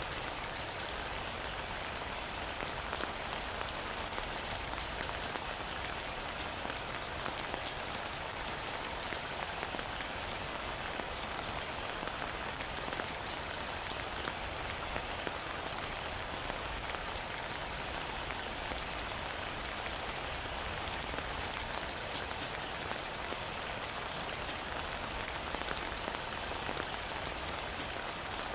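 Heavy rain falling steadily: an even hiss with a few faint drop ticks scattered through it.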